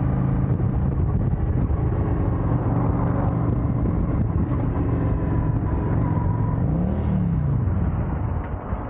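Motorcycle engine running steadily while riding, with a brief rise and fall in pitch about seven seconds in.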